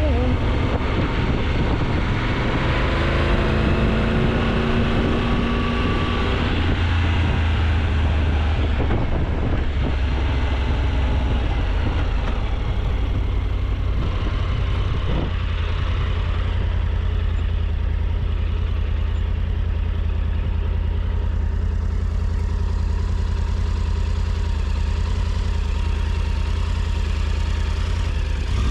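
Motorcycle engine under way, its pitch shifting in the first several seconds, then running steadily.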